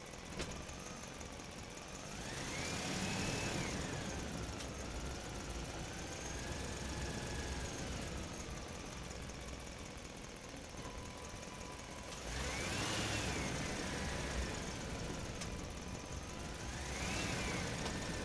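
Small motor running over a low rumble, its whine rising in pitch and falling back three times as it speeds up and slows down.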